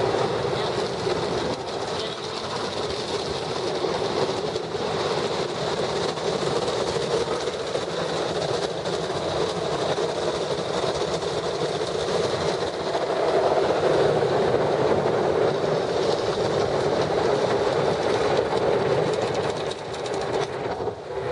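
Ryko car wash's big rotating brush sweeping back over the car, heard from inside the cabin: a loud, steady churning rattle of cloth strips slapping the body and water spray. It drops away sharply near the end.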